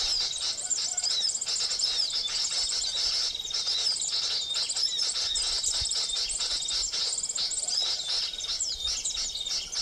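Continuous, dense high-pitched twittering and chirping of small birds such as sunbirds and flowerpeckers, the calls used to lure them to a trap.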